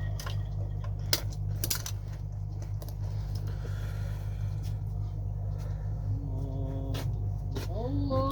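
Steady low motor hum with a few sharp metallic clicks and clinks, a cluster of them about a second and a half in and another near the end. A man's chanted recitation comes in just at the end.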